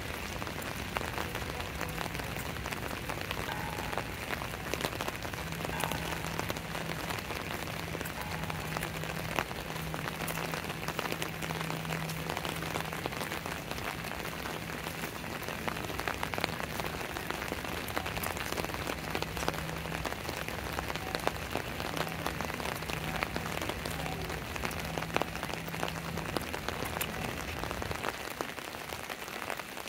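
Steady rain falling, an even hiss dotted with many sharp drop ticks. A faint low hum breaks in and out under it, stopping near the end.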